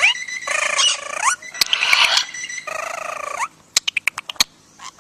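A parrot calling in harsh, buzzy squawks, several about a second long, followed by a quick string of sharp clicks near the end.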